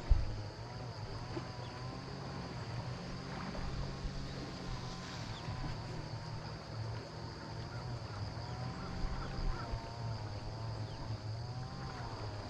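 A motor running steadily: a low hum with a whine above it that wavers up and down about once a second.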